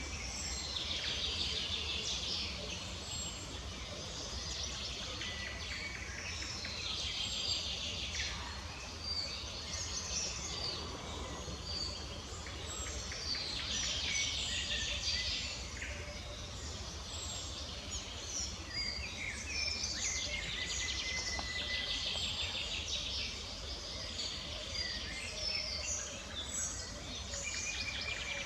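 Many small birds chirping and singing, with short calls and trills overlapping throughout, over a steady low hum.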